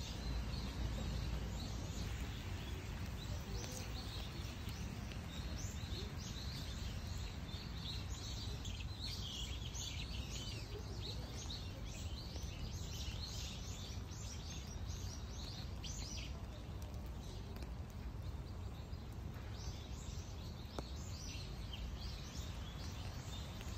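Small birds chirping and calling over and over, thickest through the middle, over a steady low rumble.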